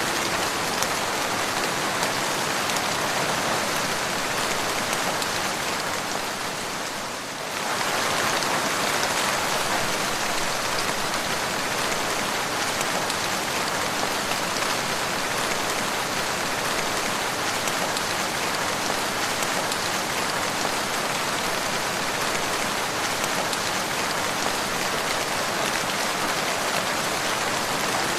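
Steady, dense rainfall, an even hiss of many drops. It dips in level for a moment about seven seconds in, then returns to the same steady pour.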